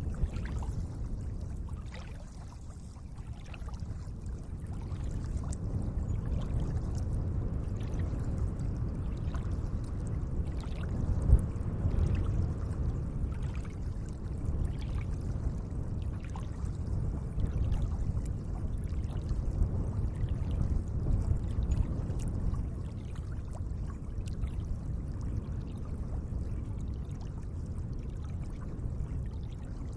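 Lake water lapping gently at the shore: a steady low wash with many small splashes and drips.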